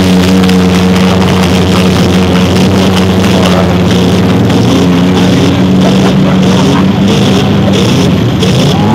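Demolition derby cars running at high revs, their engines making a steady drone, mixed with loud rock music.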